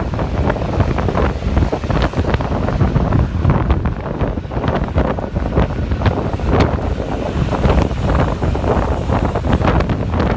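Loud, gusty wind buffeting the microphone of a camera on a moving bicycle, with low rumbling that rises and falls irregularly.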